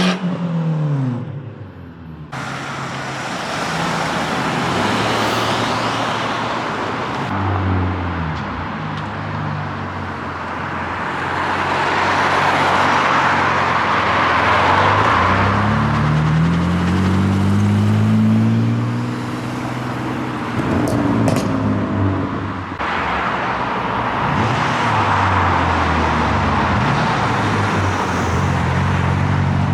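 Cars driving past one after another, engines running and rising in pitch as they accelerate, over tyre and road noise.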